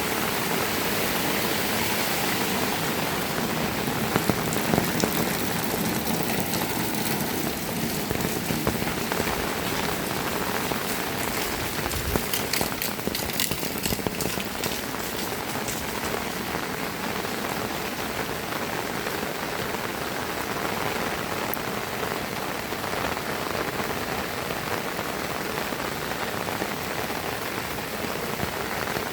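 Heavy rain falling steadily, a dense patter of drops hitting surfaces, with a run of sharper drop clicks about halfway through.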